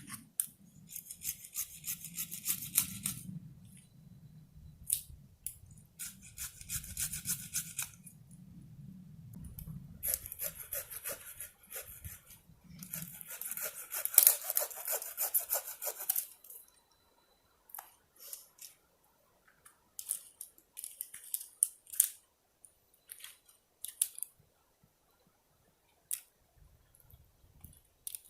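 Hand saw cutting small dead limbs in four bursts of quick rasping strokes, followed by scattered snaps and clicks of branches being broken and handled.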